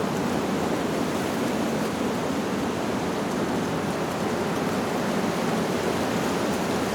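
Wind blowing steadily through leaves, an even rushing noise without gusts.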